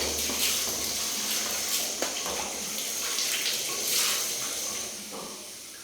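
Water rushing into a toilet bowl, rinsing away scouring powder. The rush starts suddenly and dies away about five seconds in.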